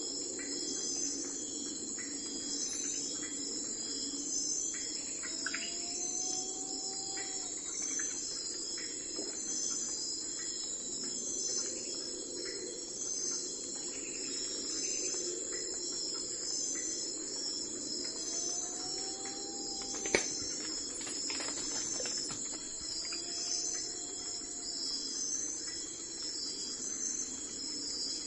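Crickets chirping in a steady, pulsing high chorus over a low background hum, with a few faint short calls that slide upward and then level off. A single sharp click sounds about two-thirds of the way through.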